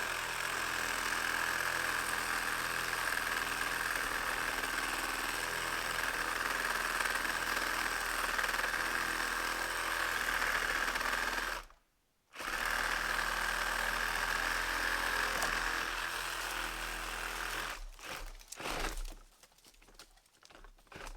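Milwaukee cordless saw running at full speed and cutting tree wood, with a steady high whine. It stops for half a second about twelve seconds in, runs again, then gives way to short on-off bursts near the end.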